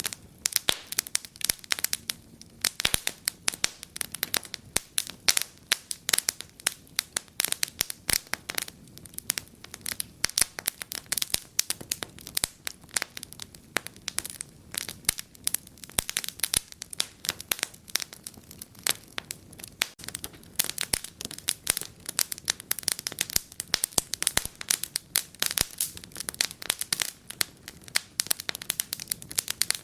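Wood fire in a fireplace crackling, with a constant stream of irregular sharp pops and snaps over a faint low rush.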